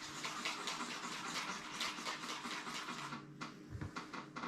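Homemade slime being squished and worked by hand: soft, irregular sticky crackles and small pops, thinning out to a few sharper clicks near the end.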